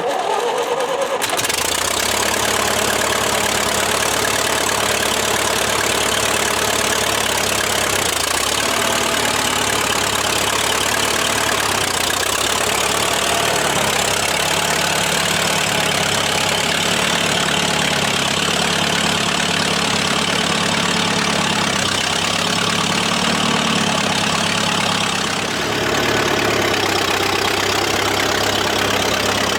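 Engine of an old machine that has sat unused for a couple of months, running steadily after being started, its speed shifting a few times.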